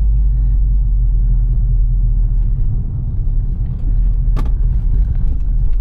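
2012 Ford Focus with a DPS6 dual-clutch transmission being driven, heard from inside the cabin: steady low engine and road rumble. A single short click comes about four and a half seconds in.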